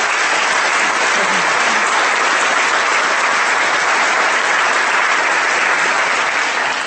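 Audience applauding steadily, dense clapping that fades out near the end.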